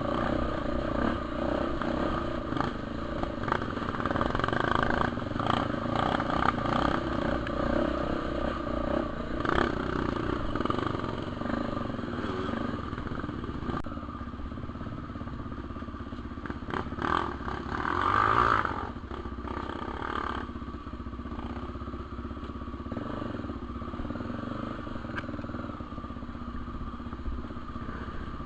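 Honda Tornado 250 trail bike's single-cylinder four-stroke engine running under varying throttle, rising and falling as it rides, with its loudest rev about two-thirds of the way through.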